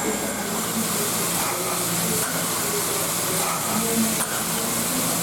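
Steam hissing steadily from the Er-class steam locomotive Er 799-18, with faint voices underneath.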